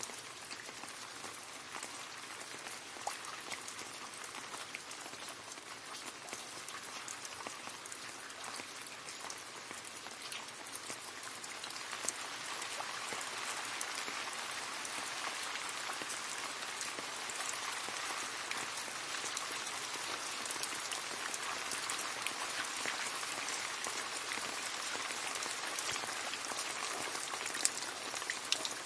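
Rain falling into a puddle: a steady sound of many small drops splashing, which gets a little louder a little under halfway through.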